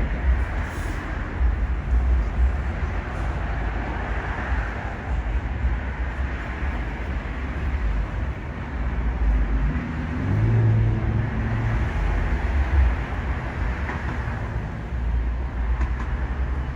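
Low, steady street traffic rumble, with a vehicle's engine hum rising briefly about ten seconds in.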